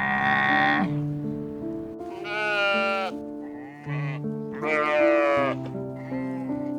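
Bleating livestock: four or five quavering bleats, each under a second, at the start, around two and a half seconds in, twice around four to five seconds in, and briefly near the end, over background music with steady held notes.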